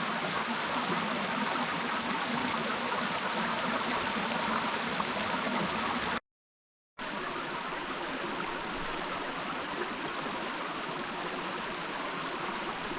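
Small mountain stream running, a steady rushing of water. The sound cuts out completely for under a second about six seconds in.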